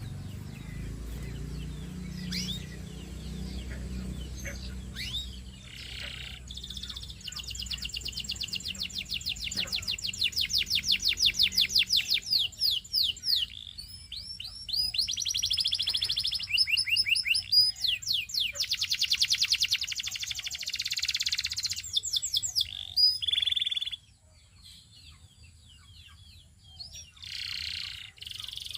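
Canary singing long, rapid trills of fast-repeated high notes, switching to a new trill every few seconds. The song breaks off suddenly near the end, leaving only faint scattered chirps.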